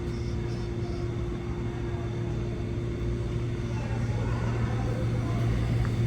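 Subway train running, a steady low rumble and hum that grows louder over the last couple of seconds.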